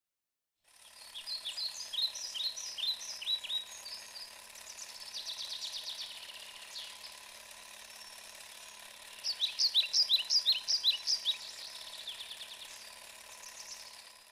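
Songbirds singing, with quick repeated downward chirps in two dense runs and a fast trill between them. A faint steady hum runs beneath.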